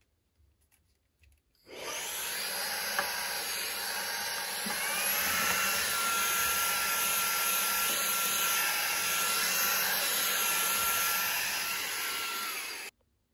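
Vacuum cleaner running steadily, a loud hiss with a high whine, starting abruptly about a second and a half in and cutting off sharply near the end.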